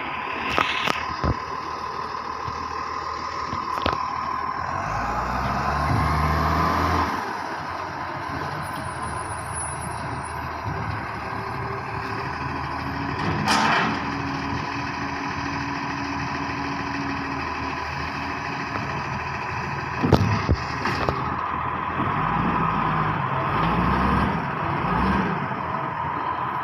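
Garbage truck running with a steady high whine over the engine. The engine rises briefly a few seconds in, and there are several sharp clanks and bangs, the loudest about halfway through and another pair a few seconds later, typical of a bin being lifted and emptied.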